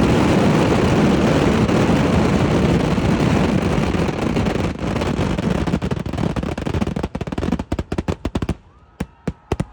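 Eeduvedi fireworks barrage: a dense, continuous roll of explosions that thins after about five seconds into separate bangs in quick succession, ending with a few last scattered bangs.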